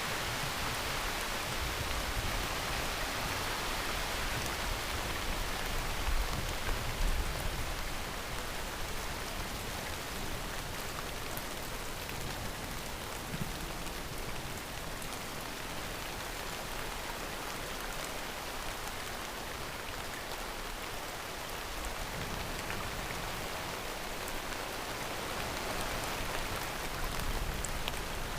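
Heavy rain falling, a steady hiss of drops on surfaces, with a low rumble swelling in the first several seconds and again near the end.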